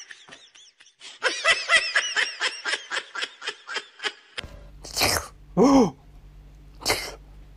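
High-pitched laughter in quick repeated bursts, about five a second, in two runs that stop about four seconds in. After that a low steady hum with a few short breathy sounds and a falling voice-like cry.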